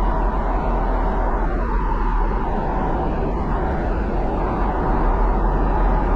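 Toyota Hilux GUN125 driving: steady pickup engine drone mixed with road and tyre noise, strongest in a deep low rumble, with no sharp changes.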